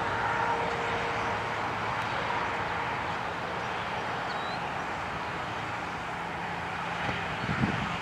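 John Deere 8300 tractor's six-cylinder diesel engine running steadily under load while pulling a cultivator.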